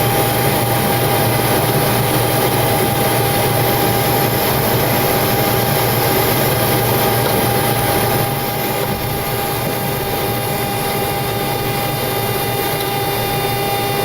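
Boeing 727-200 cockpit noise, its three Pratt & Whitney JT8D turbofans at idle: a steady hum and whine with a constant high tone. It gets slightly quieter about eight seconds in.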